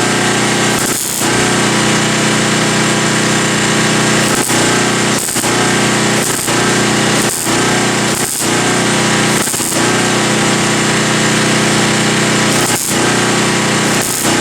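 Welder laying short stitch welds on a sheet-metal rust patch: a loud, steady crackling buzz broken by brief pauses every second or few as the trigger is released between beads.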